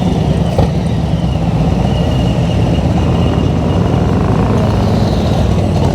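Harley-Davidson Road Glide Special V-twin engine running steadily while cruising, with road and wind noise.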